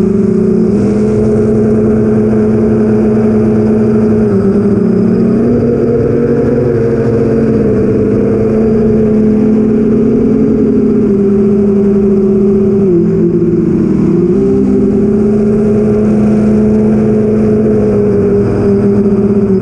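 The four BrotherHobby Avenger 2812 brushless motors and 8-inch Master Airscrew props of an 8-inch FPV quadcopter in flight, heard from the camera on the drone. It makes a loud, steady buzzing whine whose pitch steps up and down with the throttle, with a brief dip around 13 seconds in.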